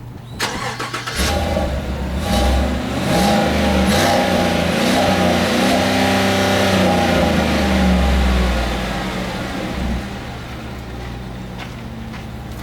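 2018 Chevrolet Silverado pickup engine and exhaust, revved hard several times with the pitch rising and falling, then dropping back to a steady idle near the end.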